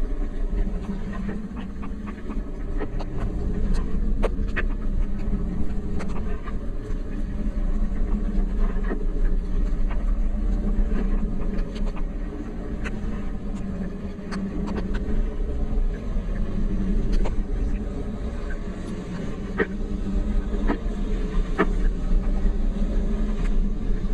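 Steady low rumble of travelling along the road, with scattered light ticks of raindrops striking a rain cover.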